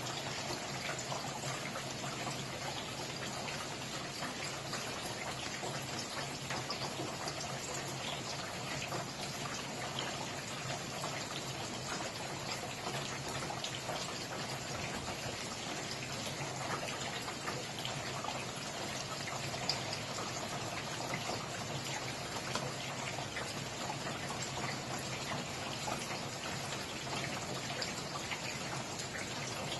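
Steady rainfall: an even hiss of falling rain with many small drop ticks, a few individual drops a little louder about two-thirds of the way through.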